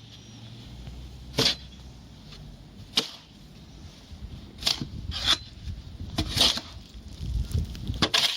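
Snow shovel digging into deep snow: about half a dozen short, sharp scraping strokes at uneven intervals.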